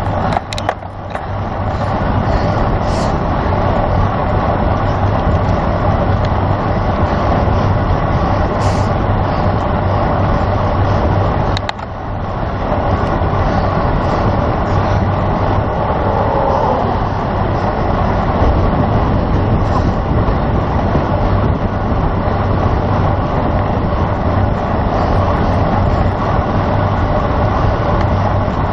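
Steady wind rushing over the microphone of a road bike moving at race speed, with a low hum of road noise underneath. It dips briefly about twelve seconds in.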